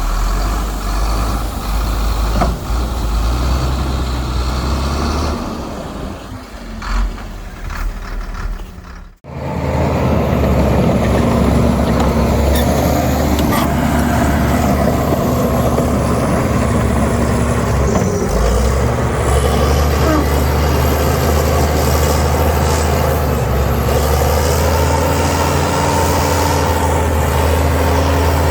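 Heavy diesel engines of earthmoving machinery running steadily with a deep low rumble, cut off abruptly for a moment about nine seconds in, then continuing.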